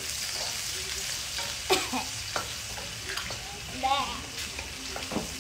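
Chopped garlic and Thai chilies sizzling in hot oil in a frying pan as they are stirred with a wooden spatula. The spatula clacks against the pan a few times, loudest about a second and a half in.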